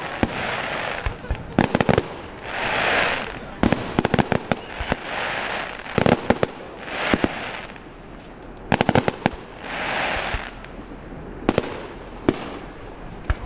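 A fireworks display: shells bursting in sharp bangs, often several in quick succession, with rushes of noise swelling and fading between the bursts.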